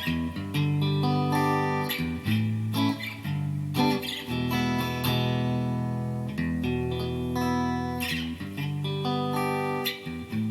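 Yamaha Pacifica PAC012 electric guitar on pickup-selector position 4 (neck and middle single-coils), played with picked single notes and chords left to ring.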